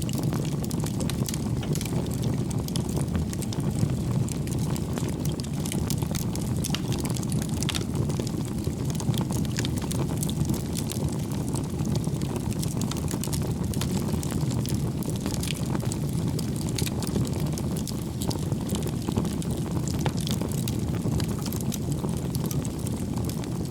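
Wood fire burning, a steady low rush of flame with frequent small, sharp crackles and pops from the burning logs.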